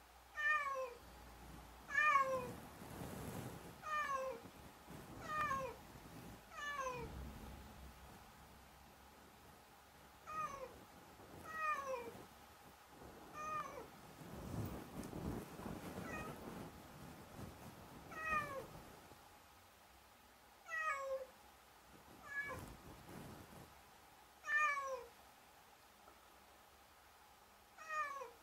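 Domestic cat meowing over and over: about fourteen short meows, each sliding down in pitch, coming every one to four seconds. Low rustling noise runs under some of them.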